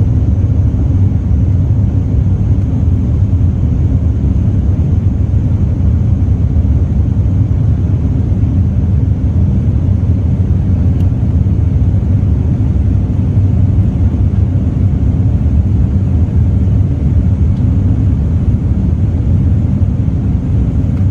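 Boeing 787-9 airliner on departure: a steady, loud low rumble of jet engines and airflow.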